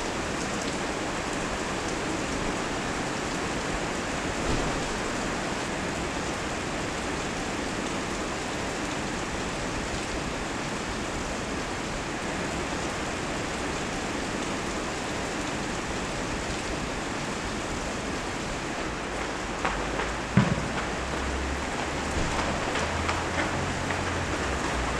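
Steady rain falling and hissing on the pitch and its surroundings. A few sharp thumps sound about twenty seconds in.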